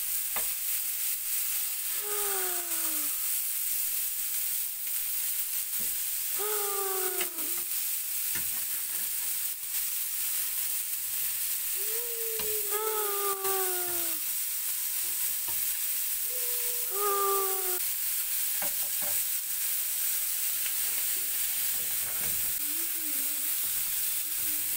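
Marinated butterfly prawns sizzling in hot oil on a flat dosa pan, with a slotted metal spatula scraping the pan as they are turned over. Five times a short falling whine-like tone sounds over the sizzle.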